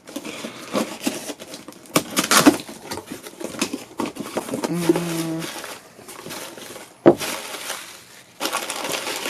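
A cardboard shipping box being opened by hand: irregular rustling and tearing of packaging, with sharp snaps or knocks about two seconds in and again about seven seconds in.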